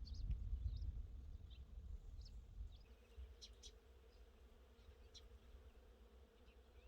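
Faint outdoor garden sounds: scattered short bird chirps, with a steady insect buzz like a bee's starting about three seconds in, over a low rumble that fades after the first few seconds.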